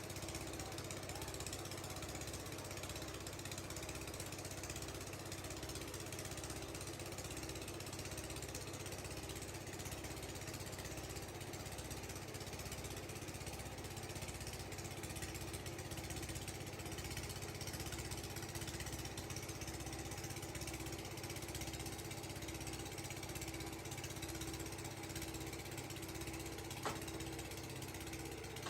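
Factory machinery running steadily: a constant hum with a low pulse about once a second over a broad hiss, and one sharp click near the end.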